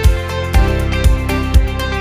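Background music: plucked guitar over a steady beat of about two low thumps a second.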